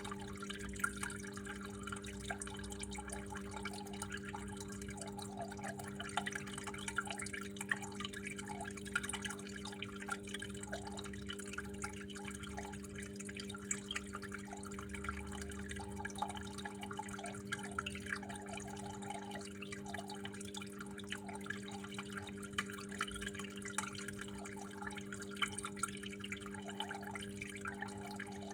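Water flowing and dripping, with many small irregular drips and splashes, over a steady low hum.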